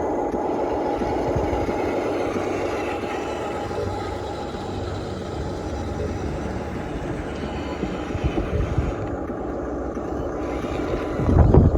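Small electric motors and gearboxes of radio-controlled toy construction machines running steadily, with a whirring whine. A louder rumbling burst comes shortly before the end.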